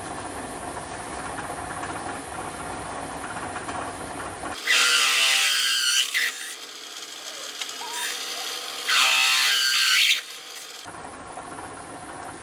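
Electric drill boring a hole through steel tubing: the motor runs steadily, and twice, about five and nine seconds in, the bit grinds loudly and shrilly as it cuts into the metal.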